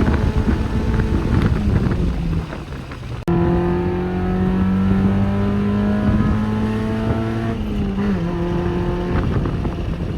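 Honda Civic EK's swapped K20 inline-four engine running under load on the road, with a clear steady engine note. Its sound dips about two and a half seconds in and cuts off abruptly just after three seconds, then returns with the pitch climbing slowly and stepping down a little near the end.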